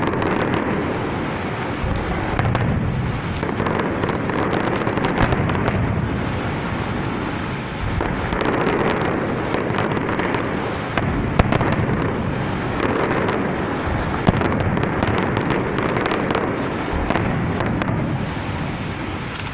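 Fireworks going off: a dense, continuous crackle of many small bursts, with two sharper bangs in the second half.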